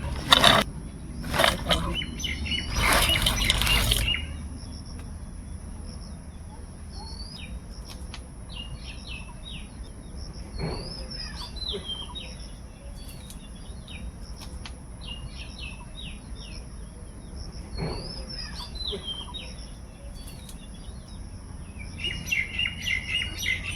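Small birds chirping in clusters of short, quick calls, over a steady high-pitched tone. A few loud noisy bursts come in the first four seconds.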